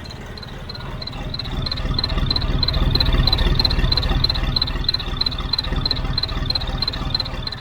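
John Deere 5310 diesel tractor engine running, its level rising about two seconds in, with a high-pitched whistle from an exhaust turbo whistle pulsing about three times a second.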